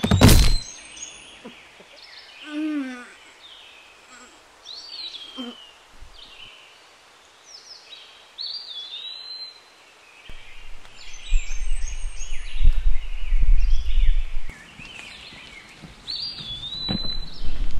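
Wild birds singing in woodland, one repeating a short whistled note that rises and then holds, several times over. A loud sharp bang right at the start, and a low rumble through much of the second half.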